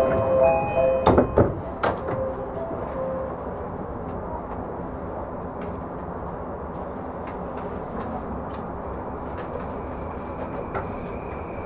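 An electronic door chime sounds as the sliding doors of a Yamanote Line E235-series train close with two sharp knocks, about one and two seconds in. Then comes the steady rumble and hiss of the carriage as the train pulls out of the station.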